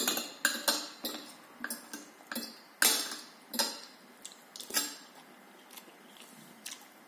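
Cutlery clinking and scraping against a plate while eating: a quick run of sharp clinks that thins out to a few faint ones about five seconds in.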